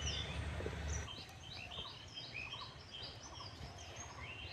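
Small birds chirping over and over, short high calls several a second. A low rumble fills the first second and then stops.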